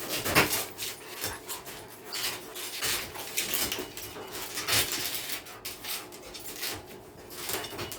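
A small dog and a big dog play-fighting: irregular scuffling and short dog sounds come in quick, uneven bursts.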